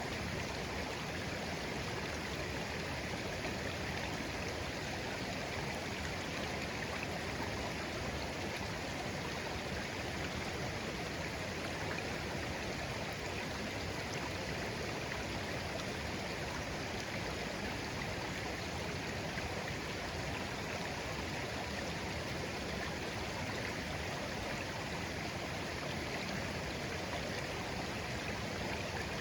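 Shallow stream flowing and babbling steadily over stones, an even rushing wash of water.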